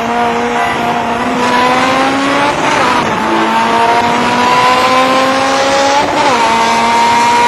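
Four-cylinder car engine under hard acceleration, its pitch climbing steadily through the gears, with an upshift about a third of the way in and another near the end. Road and wind noise are heard from inside the car.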